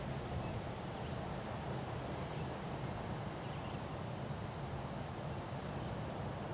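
Strong wind blowing steadily and buffeting the microphone with a low rumble.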